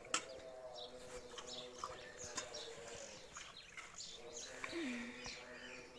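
Small birds chirping over and over, with a sharp click just after the start.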